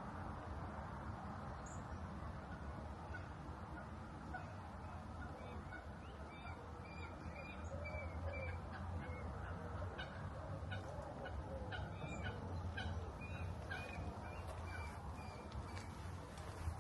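Birds calling: a run of short, repeated calls beginning about six seconds in, over a steady low background hum.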